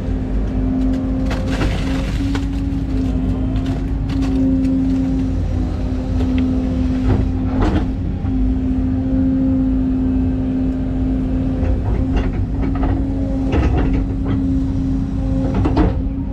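Excavator's diesel engine running steadily under work, with a constant hum-like tone over a low rumble, and several sharp clanks and knocks from the machine working.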